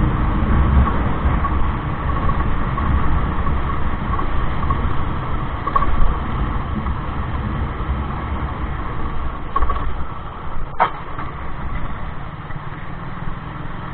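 Motorcycle running on the road while riding, a steady low rumble of engine and road noise, with one sharp click about eleven seconds in.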